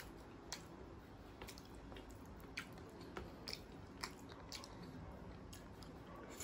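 Close-up wet chewing of a mouthful of rice and dal makhani, with short, sharp mouth clicks and smacks at irregular intervals.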